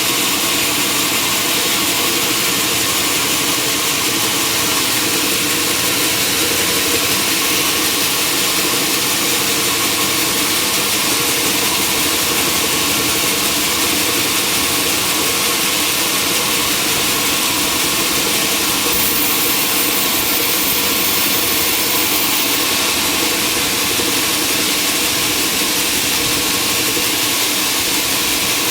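Sawmill machinery running steadily: a motor with a constant hiss over it, unchanging throughout.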